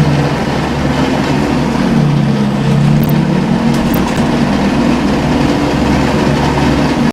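Scania L94UB city bus's CNG engine and ZF five-speed automatic driveline running while the bus drives, a steady low drone that drifts a little in pitch. A couple of light clicks sound about three and four seconds in.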